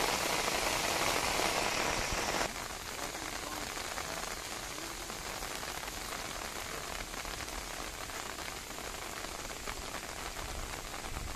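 Heavy rain falling on shallow floodwater and grass, an even hiss of drops on the water. About two and a half seconds in it drops suddenly to a softer, steady rain hiss.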